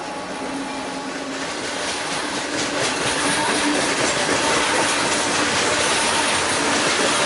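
Train passing close by, its wheels rolling and clattering on the rails, growing louder over the first few seconds and then holding steady.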